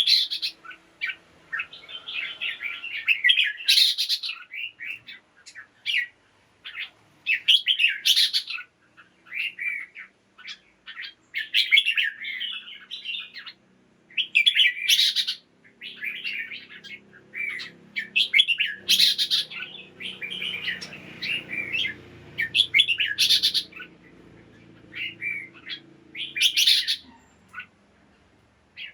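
Red-whiskered bulbul singing: quick phrases of bright chirping notes with short pauses between them, broken every few seconds by a louder, sharper note.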